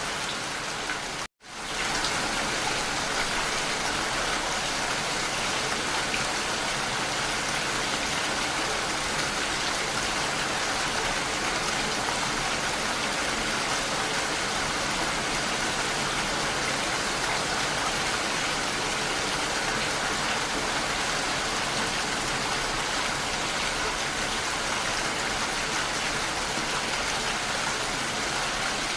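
Steady rain falling, an even hiss of many drops. Just over a second in, it cuts out for a split second and swells back in.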